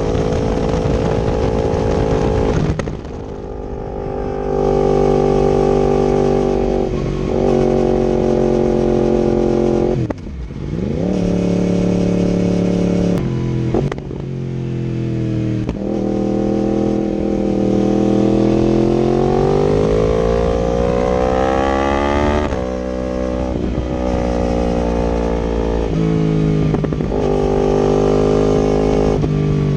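2019 Yamaha R1's crossplane inline-four engine through an Akrapovic exhaust and link pipe, ridden on the road. The engine pitch climbs under acceleration and drops sharply at each gear change, about eight shifts in all, with one longer, higher pull in the middle.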